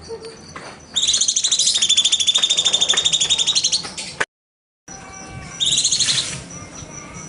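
Cucak cungkok singing a fast, high-pitched rattling trill for about three seconds. The trill cuts off suddenly into dead silence, and a second, shorter trill follows about a second later.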